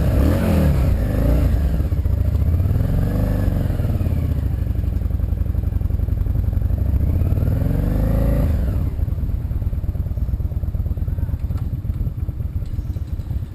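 Vehicle engine running under way with a constant low road rumble. The engine's pitch rises and falls three times, near the start, about three seconds in and about eight seconds in, then settles.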